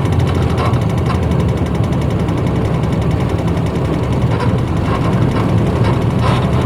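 Diesel engine of a 1994 Hino Blue Ribbon city bus running steadily under way, heard from inside the passenger cabin as a deep rumble, with light rattles now and then.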